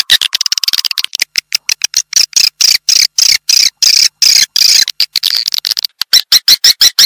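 Recorded swiftlet calls: a rapid, loud string of short, high, clicking chirps, pulsing about four to five times a second. It is a swiftlet lure call, the kind played in a swiftlet house to draw the birds in to roost and nest.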